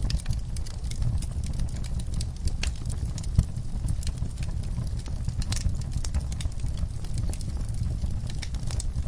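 Wood fire burning in a fireplace: irregular crackles and pops over a steady low rumble, with one sharper pop about three and a half seconds in.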